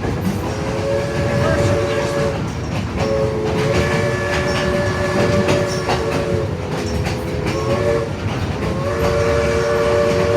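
Steam locomotive whistle sounding a chord of several tones in four blasts, long, long, short, long, the pattern of a grade-crossing signal. Under it run the rumble and clickety-clack of the passenger cars rolling on the rails.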